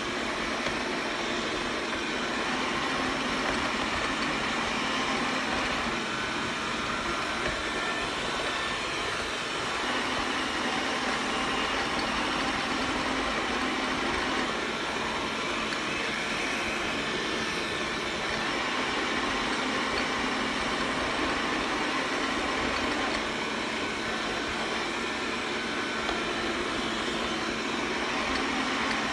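Xiaomi robot vacuum cleaning: its suction fan and brushes run with a steady, even whir.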